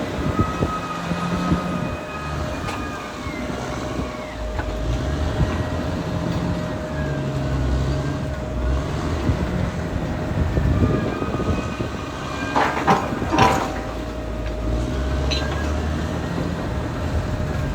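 Caterpillar D6R XL crawler bulldozer at work: its diesel engine drones steadily, and the tracks squeal in tones that rise and fall. A quick run of metallic clanks comes about three-quarters of the way through.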